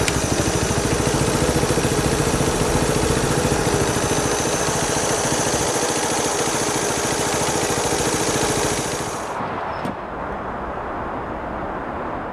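Small motorcycle engine running with a rapid, even putter. About nine seconds in the high hiss drops away, and there is a single click shortly after.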